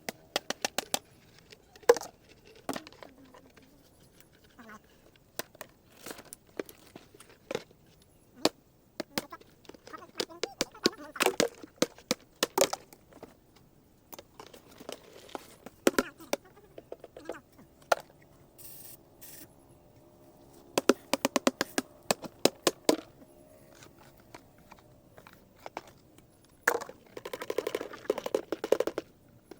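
Dried seed gourds being beaten and cracked open to get at the seeds: a run of sharp cracks and knocks that comes in irregular clusters.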